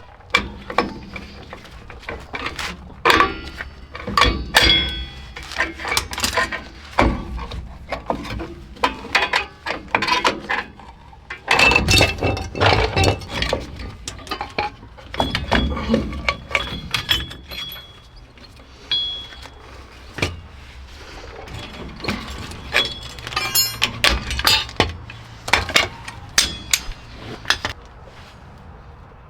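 Hand tools and metal brake parts clinking and knocking in irregular bursts as a truck's rear brake is worked on, some strikes ringing briefly.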